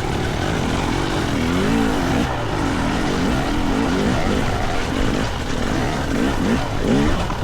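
GasGas EC300 single-cylinder two-stroke dirt bike engine revving up and down with the throttle while riding, with several quick throttle blips near the end, over a steady low rumble.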